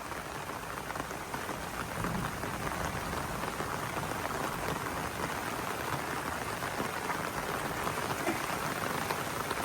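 Heavy rainstorm: a steady downpour pattering densely on surfaces.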